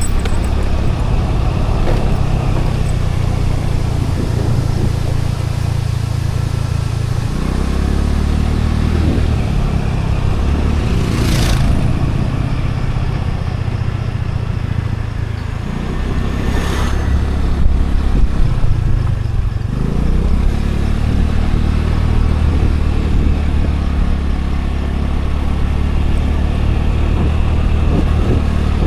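Scooter engine running on the move, its note dropping and rising with the throttle, over a low rumble of wind and road. Two brief whooshes come through, about a third and about halfway in.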